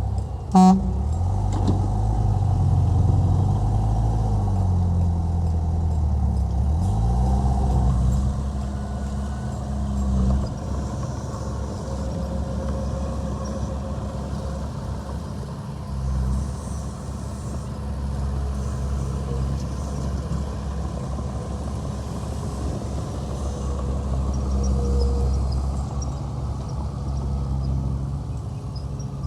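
Heavy diesel engines of a bulldozer and dump truck running, their pitch rising and falling over the first ten seconds as they work under load, then running steadier. A brief, loud, sharp sound comes about half a second in.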